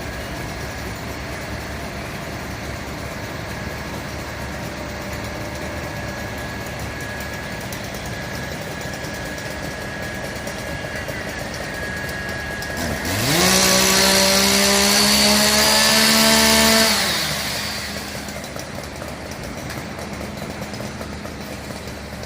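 Fire truck's diesel engine running steadily, then revving up sharply about two-thirds of the way in, held at high revs for a few seconds, and dropping back.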